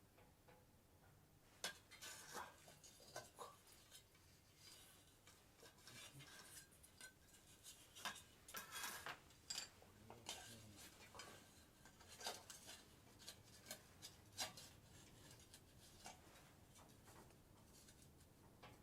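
Faint, scattered clicks and light metallic clinks of small objects being handled, bunched together about halfway through.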